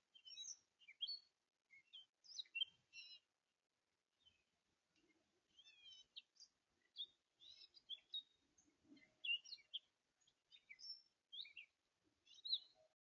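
Songbirds chirping faintly in quick, scattered short notes, some sweeping up or down in pitch, with a brief pause about three seconds in.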